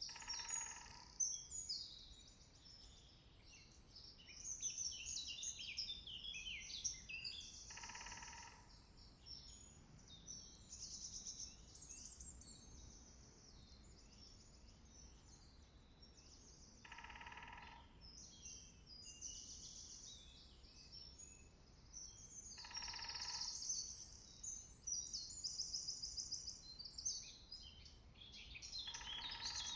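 Several songbirds singing continuously. A woodpecker drums on wood five times, each roll lasting about a second, several seconds apart.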